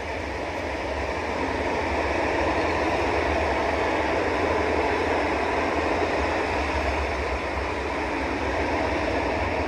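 A train rolling past, with the steady rumble and rush of its wheels on the rails growing a little louder about two seconds in.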